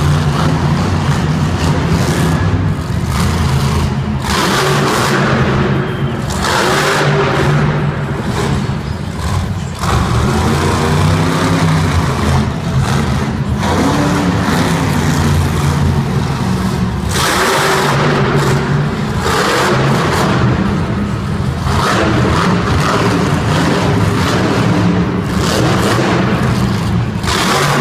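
Monster truck engine revving hard in repeated surges, the pitch climbing and falling every few seconds.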